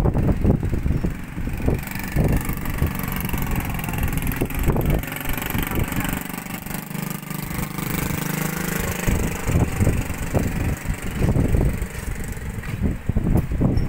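Strong wind buffeting the microphone in gusts. From about two seconds in to about eleven, an engine runs steadily through it, its pitch dipping and then rising again.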